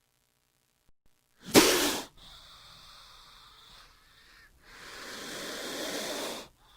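King cobra hissing. A short, sharp, loud hiss comes about one and a half seconds in, with a fainter hiss after it. Near the end a longer hiss builds for about two seconds and cuts off.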